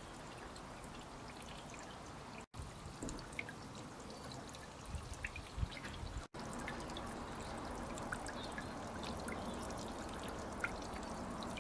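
Water trickling and pouring steadily, with small drips and splashes. The sound cuts out briefly twice, and a few low knocks come around the middle.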